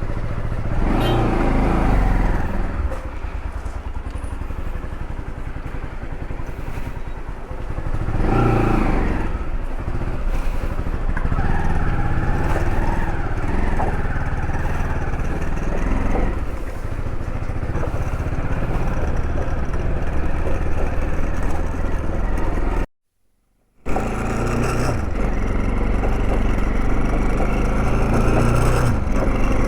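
Motorcycle engine running on the road, with louder swells twice in the first ten seconds. The sound cuts out completely for about a second around twenty-three seconds in, then resumes.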